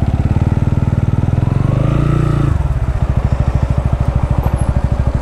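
TVS Ronin 225's single-cylinder engine idling with a steady, even pulse; its pitch briefly rises and falls about two seconds in.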